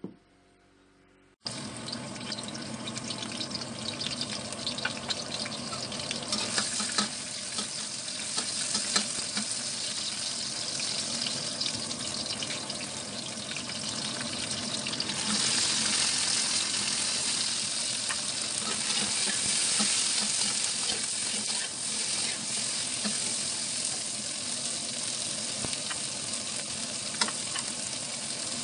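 Sliced garlic, ginger and chili sizzling in hot oil in a steel wok, with a metal spatula scraping and tapping against the pan as it stirs. The frying starts after a brief near-silent moment and grows louder about halfway through.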